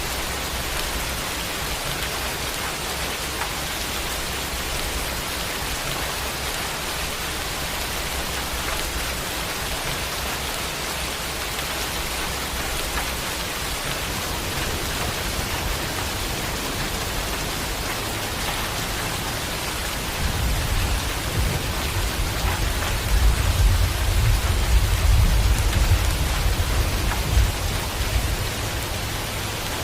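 Steady heavy rain. About two-thirds of the way through, a low rolling rumble of thunder builds and lasts several seconds before fading.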